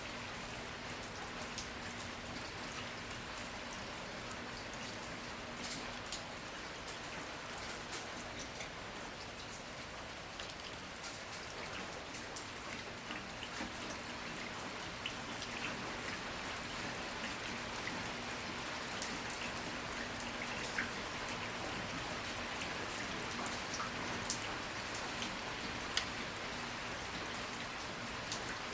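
Steady rain, an even hiss with single drops ticking sharply now and then, over a faint steady low hum.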